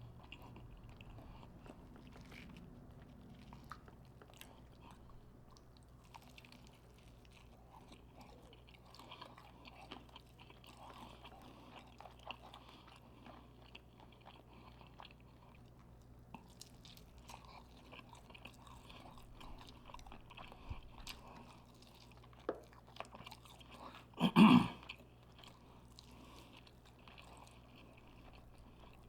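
Close-miked chewing and crunching of a fried chicken and biscuit meal, with small wet clicks and crackles throughout. A brief loud noise stands out about 24 seconds in.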